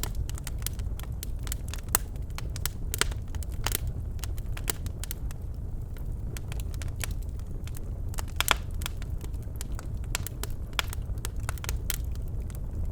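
Birch logs burning in a fireplace, crackling with frequent sharp pops over a steady low rumble of the flames; a louder pop about 2 s in and another about 8.5 s in.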